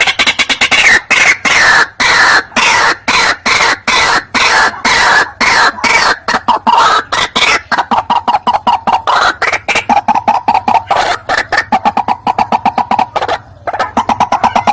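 White-breasted waterhen calling: a loud, unbroken run of harsh, croaking notes repeated several times a second, getting faster and closer together past the middle.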